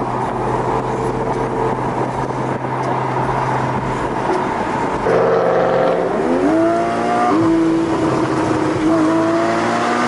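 Car engine accelerating hard, its pitch climbing about five seconds in and stepping before it holds steady, over a steady rumble of other engines.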